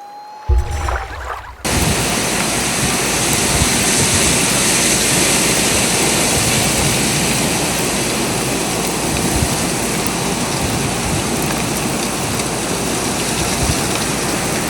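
A thump, then a steady, loud rushing noise that cuts in abruptly about two seconds in and holds even to the end.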